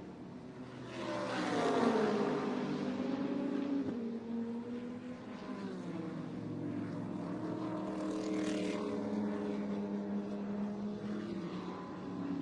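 Race car engines on track: a car goes by with its engine note falling about a second or two in, then a steady engine drone continues.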